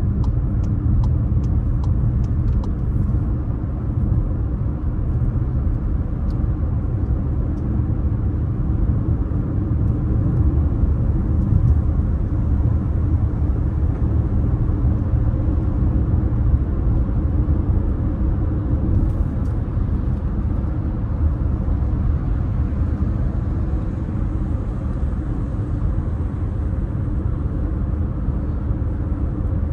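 Steady road and engine rumble heard inside a moving car's cabin. A quick run of light, evenly spaced ticks comes in the first three seconds.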